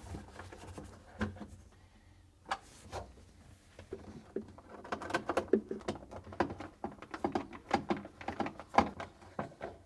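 Screws being driven back into a refrigerator's plastic damper cover with a nut driver: a few separate knocks at first, then a dense, irregular run of small clicks and taps.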